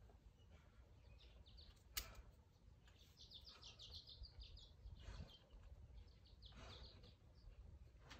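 A small bird singing faintly, a quick run of high chirps a few seconds in and another short run near the end, over a low steady background rumble. A single sharp click about two seconds in.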